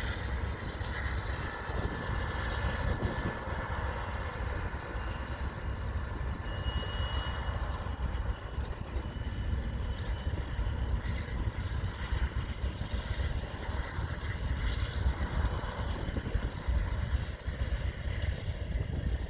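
Freight train cars rolling past on steel rails: a steady low rumble of wheels, with a faint high wheel squeal in the first half, strongest around six or seven seconds in.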